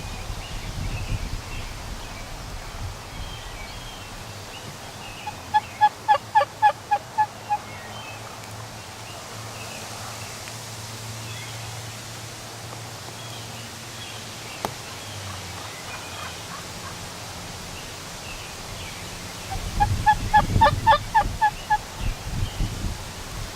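Eastern wild turkey gobbling twice: two loud, rapid rattling runs of notes, one about six seconds in and another about twenty seconds in, the second with some low rustling beneath it.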